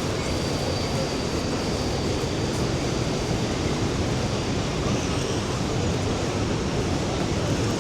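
Steady noise of rushing water at the Rhine Falls: an even, unbroken wash of sound, heaviest in the low end.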